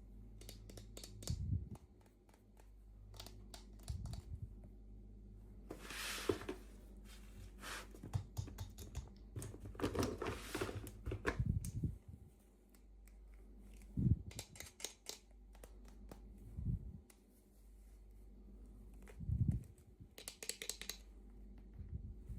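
Hands unboxing small plastic miniature toys: a run of light clicks and taps, with bouts of packaging rustling and crinkling about a quarter of the way in, near the middle, and near the end, and a few soft thumps.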